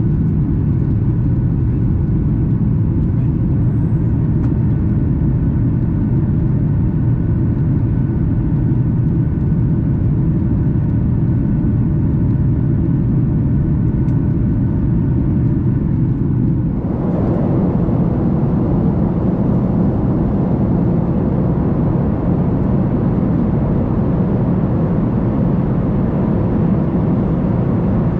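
Steady in-flight cabin noise of a Boeing 737 MAX 8, a low rumble of its CFM LEAP-1B engines and airflow with faint steady engine tones on top. About two-thirds of the way through the sound changes abruptly to a broader, hissier rush of air.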